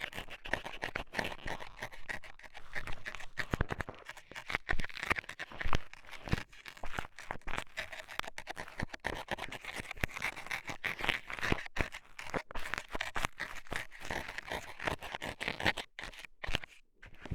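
Metal scaler scraping, scratching and poking in the ear for ear-cleaning ASMR: a dense, irregular run of small scratches and clicks, with a louder knock at the very end.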